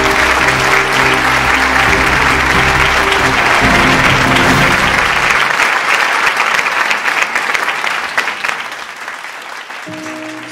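Loud applause with background music under it. The music drops out about five seconds in, the applause fades away a few seconds later, and music starts again near the end.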